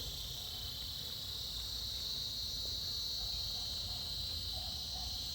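Cicada chorus: a steady, high-pitched buzz that swells slightly in the middle.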